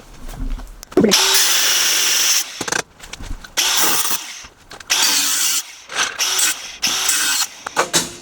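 A handheld power tool run in several short bursts, the first spinning up with a rising whine about a second in and the longest lasting about a second and a half.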